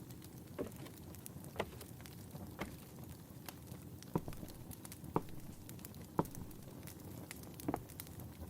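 Fireplace crackling steadily, with slow footsteps about once a second.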